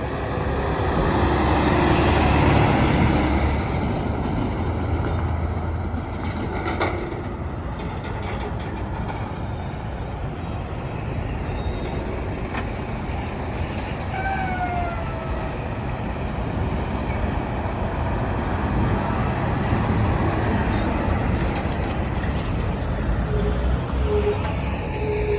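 Semi trucks passing on a highway: continuous road and engine noise, loudest as one goes by in the first few seconds, with a short falling squeal near the middle.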